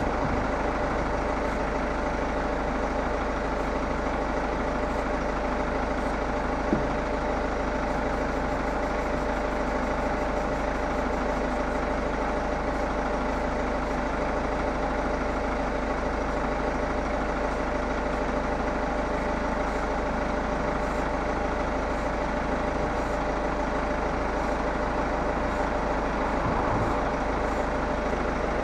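A BMW 3 Series E90 idling steadily, with faint short hisses from a hand spray bottle and a single click about seven seconds in.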